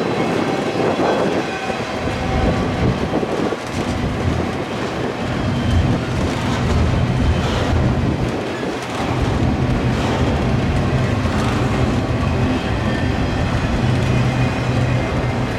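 Freight train rolling past, its wheels clacking over the rail joints, with a steady low hum coming in about five seconds in.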